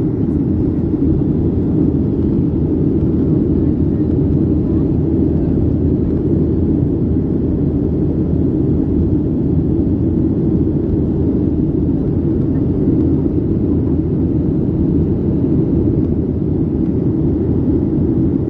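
Steady, loud rumble of a Boeing 737-900 in its climb after take-off, heard from inside the cabin: its CFM56-7B turbofans and the airflow make an even drone with no change in pitch or level.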